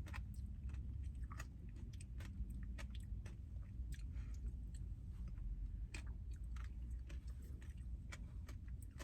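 A person chewing up close, mouth sounds with irregular small crunches and clicks, from eating a peppermint Blizzard with candy-cane and chocolate pieces.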